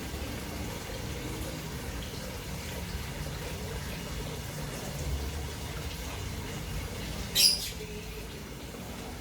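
Steady running water of a koi pond, with one brief shrill high-pitched sound about seven and a half seconds in.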